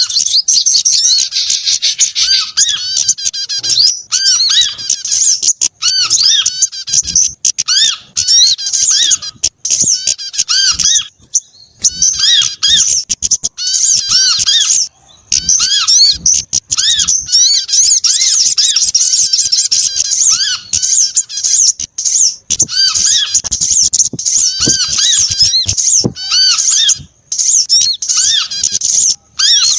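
Bird-lure recording of mixed small songbird calls layered together: loud, rapid high chirps and trills, with short arching notes repeating lower down. The calls drop out briefly a couple of times around the middle.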